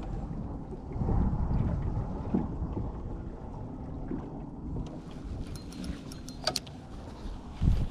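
Wind buffeting the microphone on a small boat, a low uneven rumble, with a few sharp light clicks about six seconds in and a short low thump just before the end.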